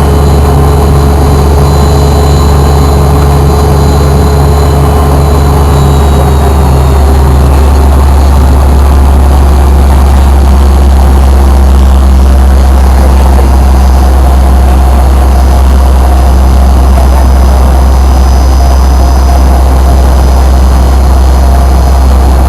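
Fokker 100's rear-mounted Rolls-Royce Tay turbofan engines running, heard from inside the passenger cabin as a loud, steady low drone. About seven seconds in, a couple of steady whining tones fade out and the low drone grows a little stronger.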